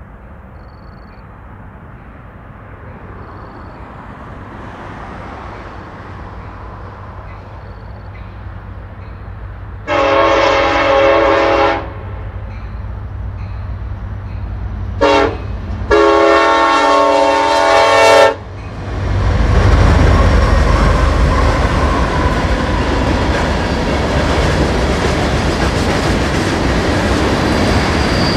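Union Pacific diesel freight locomotives approaching, their rumble growing louder, then sounding the horn three times about ten seconds in: long, short, long. The lead locomotives then pass close with loud engine noise, and the freight cars roll by with steady wheel clatter.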